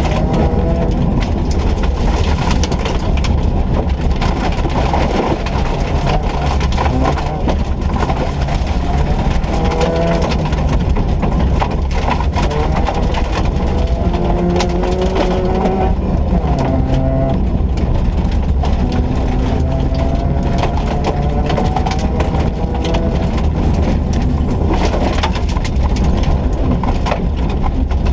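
A 1.4-litre Ford Ka rally car driving flat out on a stage, its engine note climbing in pitch again and again as it accelerates through the gears, over a constant heavy rumble of road and tyre noise.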